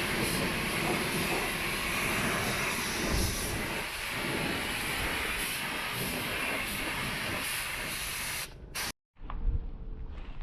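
A steady, even hiss that cuts off abruptly about eight and a half seconds in, followed by a few light clicks and taps.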